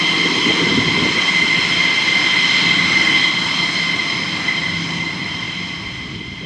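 F-16 fighter jet engine running, a steady high whine over a rumble, growing somewhat quieter in the second half.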